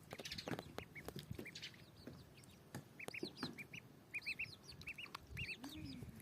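Backyard poultry calling: a run of short, high peeps, often in quick pairs and threes, with soft clucks and a few light clicks, and a lower call near the end.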